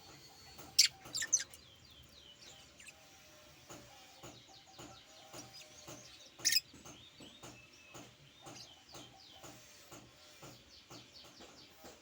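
A pet bird chirping and twittering, with short loud, shrill chirps about a second in and again just past six seconds.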